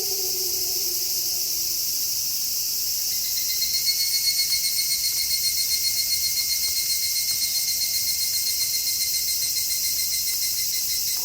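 The tail of a wolf howl slides down in pitch and fades out in the first second or two; then a cricket trills steadily, a fast pulsing high note, over a steady high hiss of night ambience.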